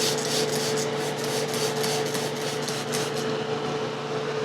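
Quick repeated hand strokes rubbing against wood as dried hide glue is worked off an antique chair frame. The strokes thin out about three seconds in.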